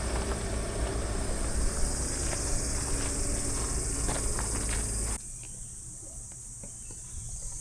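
Steady high-pitched buzz of insects in summer heat. For the first five seconds it sits over a low rumble with scattered clicks, which cuts off abruptly, leaving the insect buzz alone and quieter.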